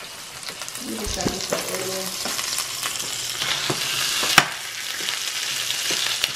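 Chorizo sizzling as it fries in a skillet, with a spoon scraping and clicking against the pan as it is stirred; one sharper clack comes about two-thirds of the way through.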